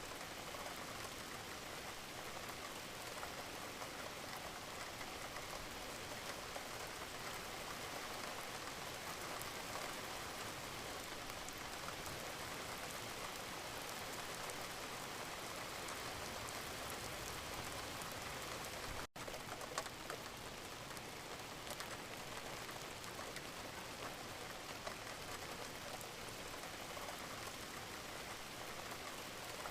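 Steady gentle rain: an even hiss of many small drops with scattered individual drip ticks. The sound cuts out for an instant about two-thirds of the way in.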